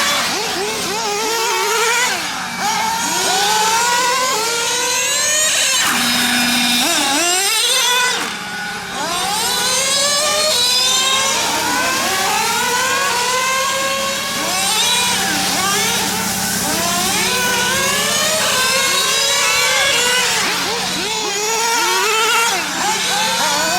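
Several nitro RC cars' small two-stroke glow engines revving hard up and down as they lap a track, many overlapping engine notes rising in pitch and dropping off again.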